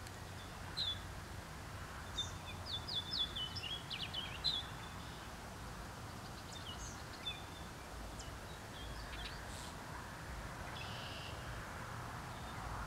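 Wild songbirds chirping and singing in several quick runs of high notes, the busiest about two to five seconds in, over steady outdoor background noise.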